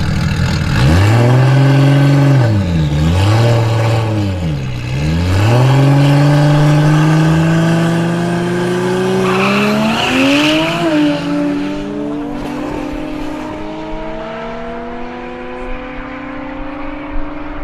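A modified muscle car accelerating hard in a drag race down the airstrip. The engine note climbs and drops sharply at gear changes about 3 and 5 seconds in, then climbs slowly through a further shift and gets quieter as the car pulls away.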